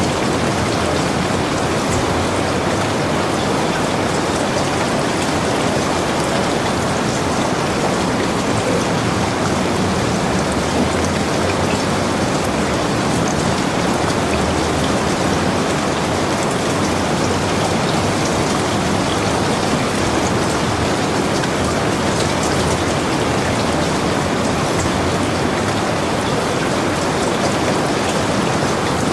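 Heavy rain falling steadily: an even hiss of rain with scattered ticks of single drops.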